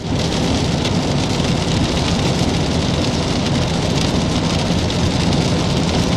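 Steady heavy rain falling on a surface, with a steady low rumble underneath.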